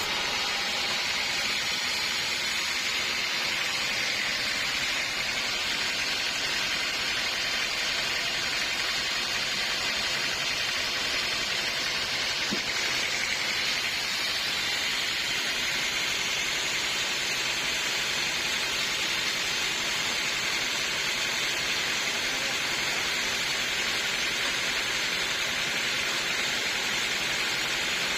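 Sawmill machinery running with a steady, even hiss that does not change.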